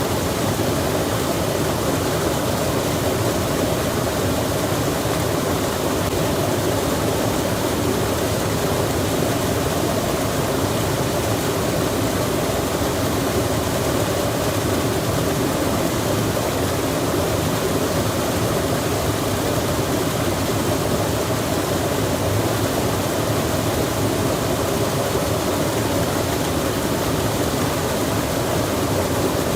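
Stream water rushing with rain falling, a steady, unbroken wash of noise that neither rises nor falls.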